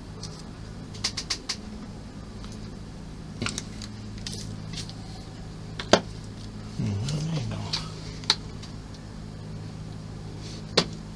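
Small plastic model parts and tools being handled on a desk: scattered light clicks and taps, the sharpest about six seconds in, over a steady low hum. A brief low wavering tone comes in around seven seconds.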